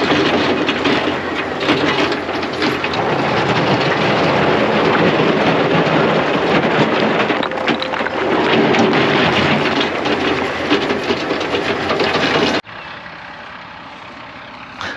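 Heavy equipment engine running loud under load, with a dense clatter over it. It cuts off abruptly near the end, leaving a much quieter steady engine sound.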